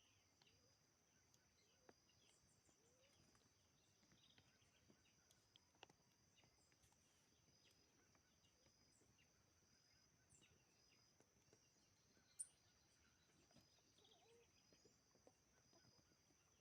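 Faint natural ambience: a steady high insect drone with scattered short bird chirps, and one sharper, louder chirp about twelve seconds in.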